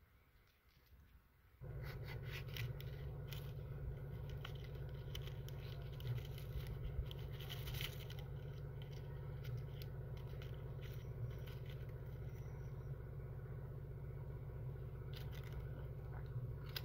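A steady motor hum starts abruptly about a second and a half in and runs evenly, with scattered scraping and clicking over it.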